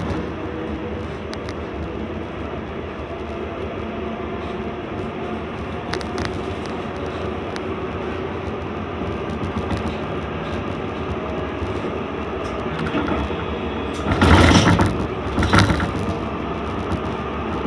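C-class tram running along the track, heard from inside the car: a steady rumble of wheels and motors. Two louder bursts of rattling noise come close together near the end.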